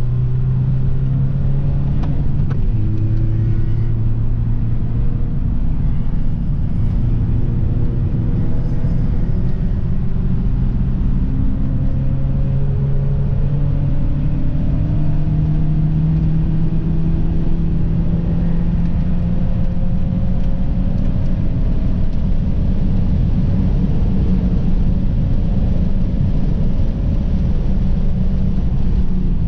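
Audi car's engine under hard throttle, heard from inside the cabin on track: its pitch dips briefly about two seconds in, as at a gear change, then climbs slowly as the car pulls along the straight.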